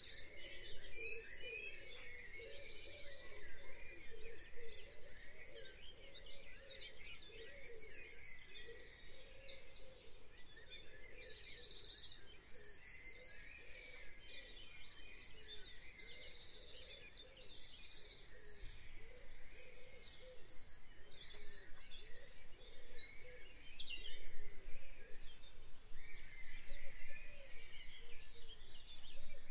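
Birdsong from several songbirds: short, high, rapid trilled phrases recur every couple of seconds, with fainter calls underneath.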